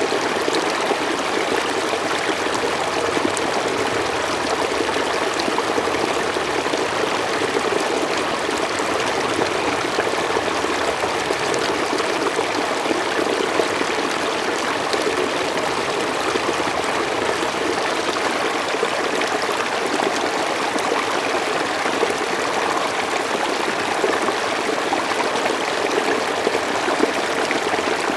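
Mountain stream flowing steadily over rocks, a continuous even rush of water with fine trickling.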